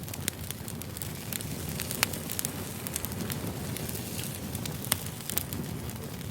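Wood fire burning: a steady low rumble of flames with irregular crackles and sharp pops, the loudest about two seconds in and again near five seconds.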